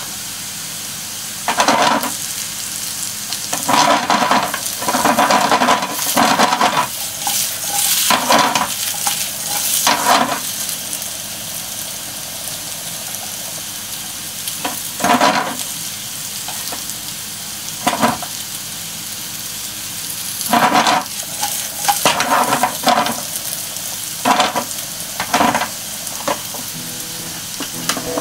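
Sliced potatoes sizzling steadily in olive oil in a frying pan. About a dozen louder bursts of sizzle and clatter come at uneven intervals as the slices are flipped with wooden chopsticks to brown the second side.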